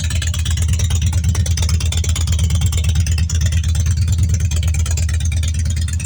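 Harley-Davidson Twin Cam V-twin running through a freshly installed aftermarket 'pipe bomb' style exhaust, a steady, rapid low exhaust pulse that sounds rough.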